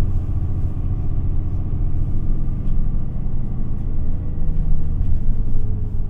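Interior sound of an Isuzu Erga (QPG-LV234L3) city bus: the diesel engine and drivetrain running with a steady low rumble. In the second half a faint whine slowly drops in pitch.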